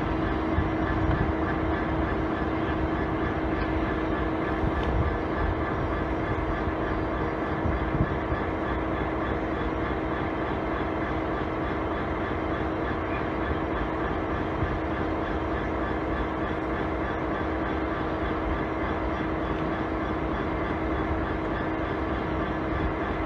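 A train running steadily at a constant pitch: a continuous hum with one strong steady tone and a rumble beneath it.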